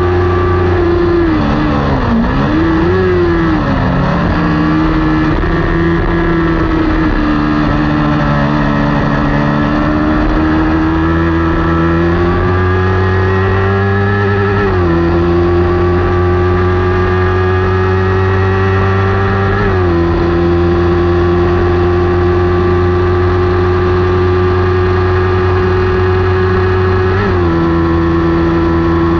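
Kawasaki Ninja 400's parallel-twin engine running hard at racing revs. A couple of seconds in the revs drop and waver, then climb slowly, with three sharp drops in pitch at upshifts: about halfway through, about two-thirds through and near the end.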